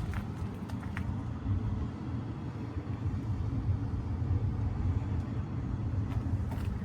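Scania P113E 360 truck's 11-litre six-cylinder turbo diesel running steadily, a deep, even engine sound.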